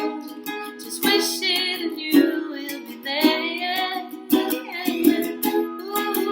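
Music: a strummed small stringed instrument with a woman's voice singing long, wavering notes twice.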